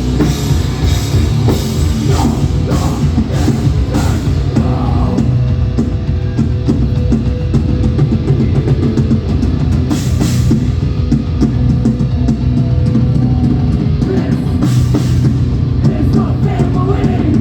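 A hardcore band playing live: heavy distorted guitars, bass and a drum kit pounding out a fast song, with cymbal crashes about ten and fifteen seconds in and vocals breaking through now and then.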